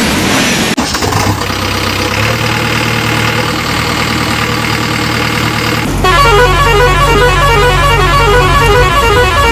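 Cartoon vehicle sound effects: a steady engine-like hum with horn-like tones. About six seconds in, it gives way to a louder, quickly repeating pattern of pitched tones.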